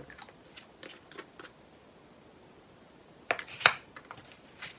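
Small sharp plastic clicks from handling diamond-painting drill bags and storage pots, with a louder cluster of clicks about three and a half seconds in.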